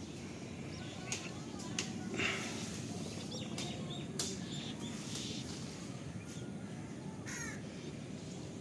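Birds calling: a harsh call about two seconds in and another near the end, with short high chirps between them, over a steady low background noise.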